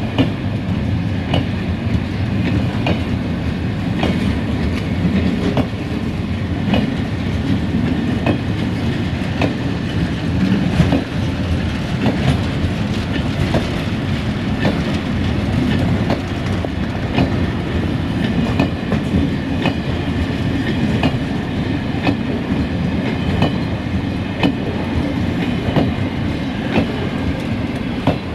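Loaded freight wagons rolling past close by: a steady rumble of wheels on rail, with repeated clacks as the wheelsets cross the rail joints.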